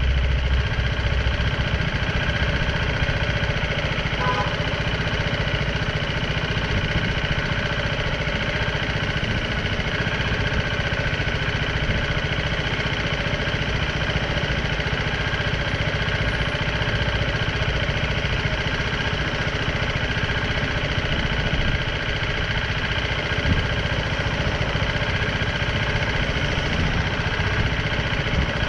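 BMW G310R motorcycle's single-cylinder engine running at a steady, even speed, with no clear revving or gear changes.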